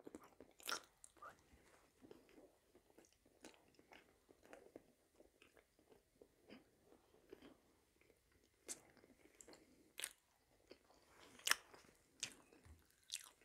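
Quiet close-miked chewing of fried potatoes and stuffed pepper: soft mouth clicks scattered throughout, with a handful of sharper clicks among them.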